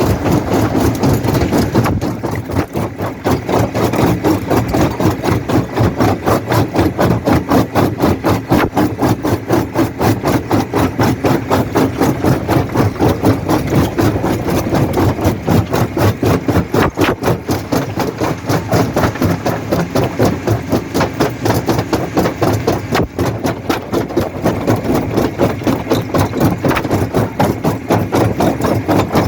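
Jaw rock crusher running, a steady machine sound with a rapid, even pulsing throughout.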